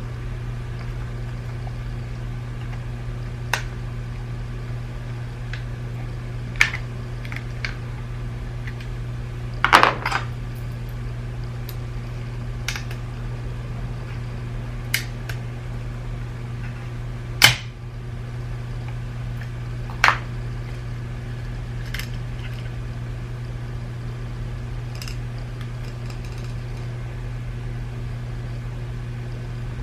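Scattered sharp clicks and taps of small plastic parts and tools being handled and pried apart on a BMW iDrive controller, about nine over half a minute, the loudest about ten seconds in and again past halfway. A steady low hum runs underneath.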